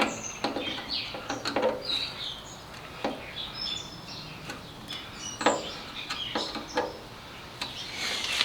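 Small birds chirping, with scattered sharp clicks and knocks of hand work on metal or plastic parts.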